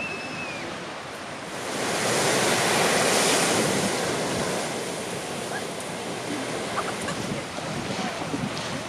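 Sea waves breaking on the shore: one wave swells about two seconds in, peaks, and washes back out, over steady surf and wind on the microphone.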